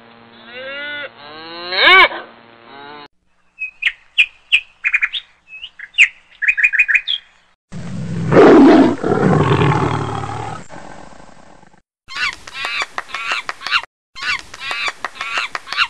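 A run of separate animal calls cut one after another: a cow mooing with a rising pitch, then a string of short high chirps, then a long rough roar that fades out, then monkeys giving short repeated calls in two bursts.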